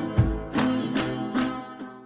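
Music: acoustic guitar strummed in chords a little more than twice a second, fading out near the end.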